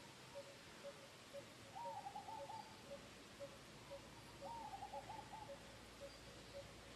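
Faint bird calls: one bird repeats a short low note about twice a second, and another gives a quick run of rapid notes about two seconds in and again near the five-second mark.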